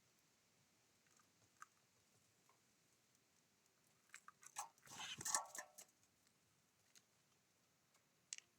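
Small bird at a feeder pecking and cracking seeds: a cluster of sharp clicks and rustling about four to six seconds in, with a few single faint clicks before and after, otherwise near silence.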